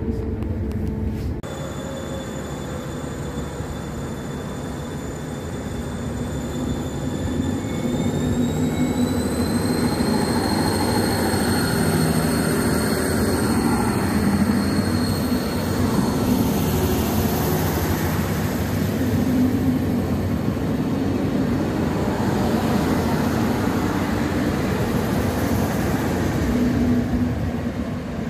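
SD85 passenger train pulling out of a station and running past: a steady rumble of wheels on rails with a thin whine that rises in pitch about a third of the way in, dropping away near the end as the train moves off.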